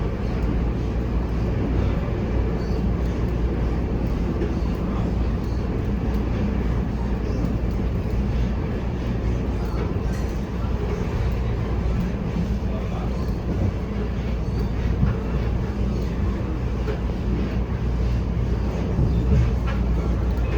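Running noise inside an EMU800 electric multiple unit travelling along the line: a steady rumble of wheels on rails with a low hum underneath.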